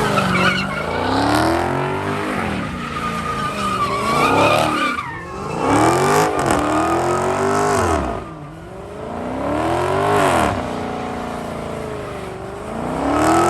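A car engine revving up and falling back in about five repeated surges, with tyres squealing and skidding as the car is driven hard.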